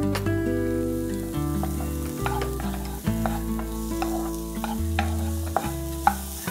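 Chopped onions sizzling in butter in a non-stick kadai, with a spatula stirring and scraping them now and then. Background music with held chords and a slowly changing bass plays throughout.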